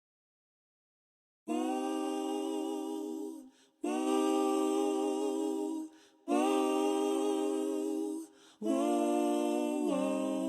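A voice humming or singing unaccompanied: four long held notes of about two seconds each, with short breaks between them, starting after about a second and a half of silence; the last note dips in pitch near its end.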